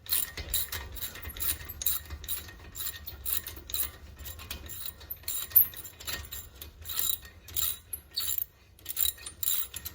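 Ratchet wrench clicking over and over in short strokes as a brake caliper bolt is backed out.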